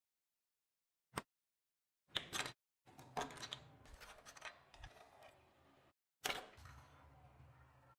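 Short edited bursts of hand-tool and handling noise: a single click, two sharp knocks, a few seconds of irregular scraping and rattling, then a sharp hit that gives way to a low steady hum.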